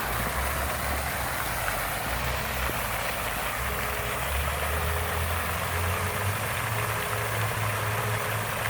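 Steady rush of water from a fountain, with a low rumble underneath that grows stronger about four seconds in.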